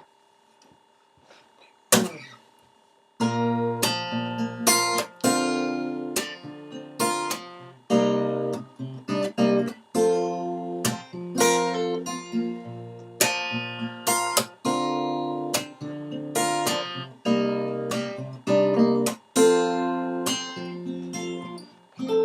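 Acoustic guitar playing a strummed intro: one chord struck about two seconds in, then steady rhythmic strumming of chords from about three seconds on.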